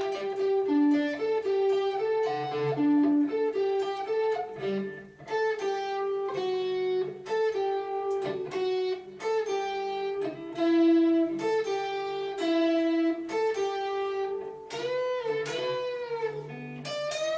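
Solo guitar playing a lead line of picked single notes, with string bends near the end.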